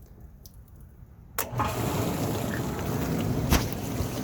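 A small dishwasher is quiet apart from a few faint clicks. About a second and a half in, a click comes as its 1/8 HP reversing induction wash motor starts, and water sprays steadily in the open tub. There is a sharp click near the end.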